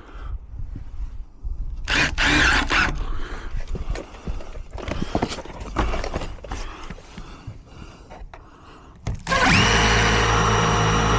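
Scattered knocks and handling clatter, then about nine seconds in a power tool's motor starts up abruptly and runs at a steady pitch.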